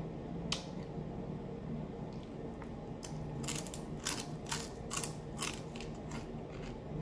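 Crispy fried black bass being chewed: a sharp crunch about half a second in, then a run of crisp crunches about two a second in the second half, over a low steady hum.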